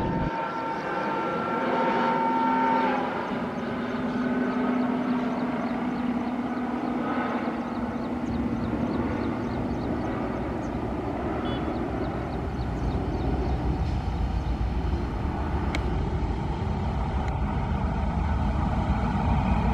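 WAP-4 electric locomotive hauling a passenger train as it approaches and passes. There is a steady hum, and the low rumble of wheels on rails grows louder over the second half. A steady higher tone sounds for about the first three seconds.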